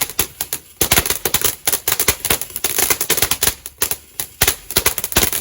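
Fireworks crackling and popping: a rapid, irregular string of sharp cracks, many a second.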